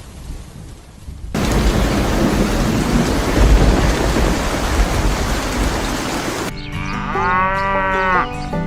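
Heavy rain and thunder that come in suddenly about a second in, followed near the end by held pitched tones.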